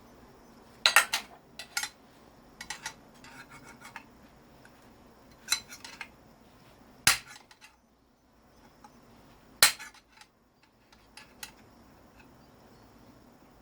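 Irregular sharp metal clanks and knocks, a few in quick succession then pauses, from working a scrap electric motor apart by hand to get at its copper windings.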